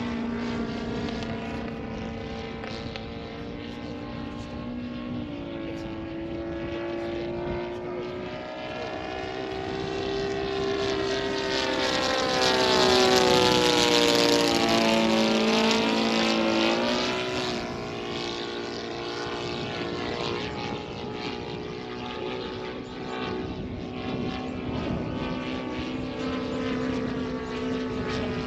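Laser 200 in-line twin four-stroke model engine running in flight on a radio-control Hurricane, its note steady, then louder and dropping in pitch as the plane passes by about halfway through. The engine is not running right and is out of tune.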